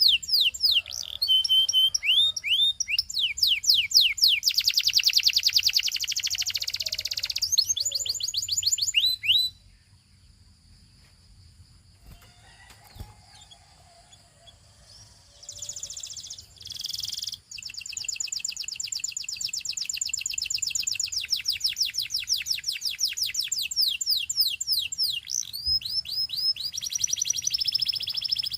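Gloster canary singing: fast trills of repeated sweeping notes. The song breaks off for several seconds around the middle, then picks up again with more rolling trills.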